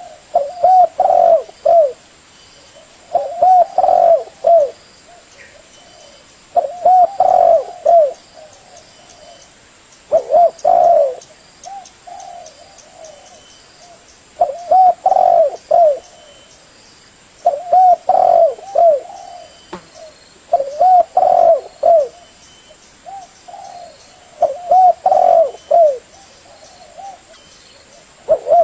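Spotted dove (tekukur) cooing: a phrase of several short coos, repeated about every three to four seconds, roughly eight times.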